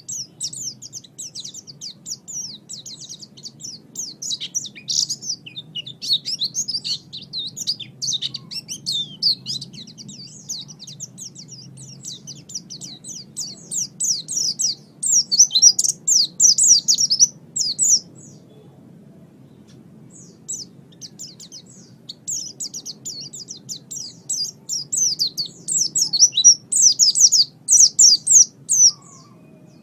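White-eye (pleci) singing a fast, high-pitched twittering song of rapid sweeping notes. It sings in two long runs with a pause of a few seconds in the middle, over a faint low hum.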